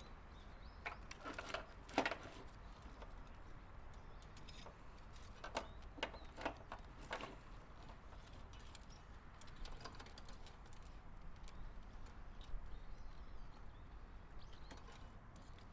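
Scattered light clicks, clinks and rustles of hands handling wiring and small parts, over a steady low hum. The sharpest clicks come about two seconds in and again around six to seven seconds in.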